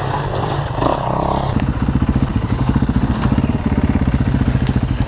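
Dirt bike engine running with a rapid, even beat, after a rough burst of noise at the start.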